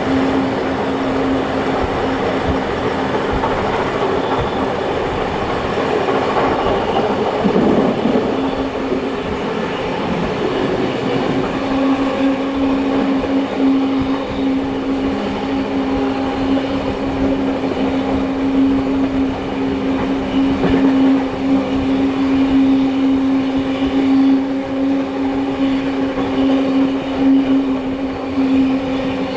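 Heritage train hauled by two steam locomotives, heard from the carriages while under way: a continuous running noise of wheels on rail with a steady drone throughout, with the loudness rising and falling.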